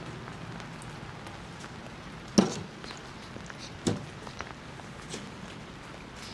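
Two sharp knocks about a second and a half apart, the first the louder, with a few small ticks over a faint steady hiss.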